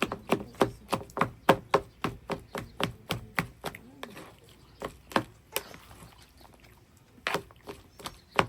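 Knife chopping food on a cutting board, fast even strokes about four a second. It stops after about five seconds, and two single strokes follow near the end.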